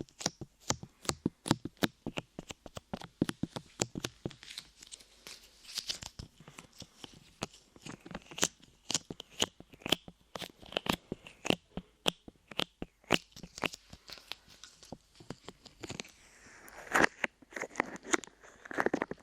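Light modelling clay being pressed, tapped and pulled off against the microphone, making rapid sticky crackling clicks, several a second. The clicks grow denser and louder near the end.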